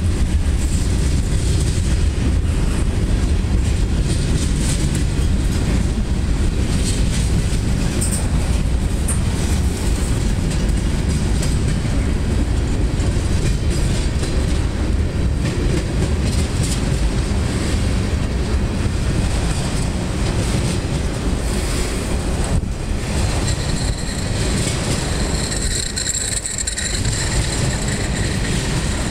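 Freight cars rolling past on steel wheels: a steady heavy rumble of wheels on the rails with scattered clanks. A thin high-pitched wheel squeal comes in near the end.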